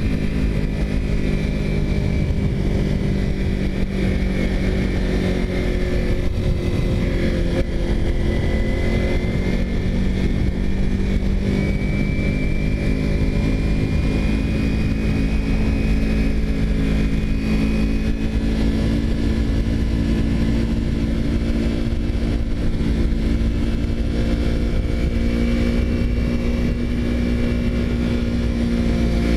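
Kawasaki Ninja 250R's parallel-twin engine running at a steady cruise, its pitch rising and falling slightly with the throttle, over constant wind rumble on the microphone.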